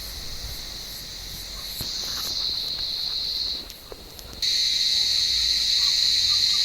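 Cicadas buzzing in a steady, high-pitched drone. It swells about two seconds in, breaks off for under a second a little past halfway, then cuts back in suddenly and louder.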